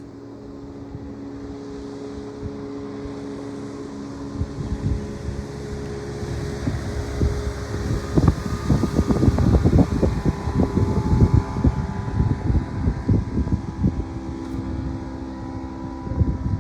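A boat's engine droning steadily and growing louder as it approaches, with wind buffeting the microphone from about five seconds in.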